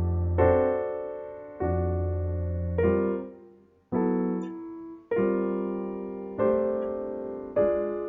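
Solo piano music: slow chords, each struck and left to die away before the next, with a brief pause a little over three seconds in.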